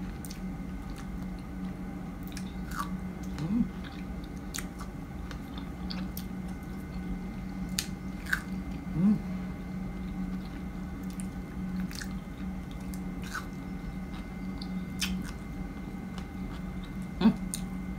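Close-up chewing and biting of fresh strawberries: soft, wet mouth sounds with scattered small clicks and smacks, and a few brief louder mouth sounds, over a steady low background hum.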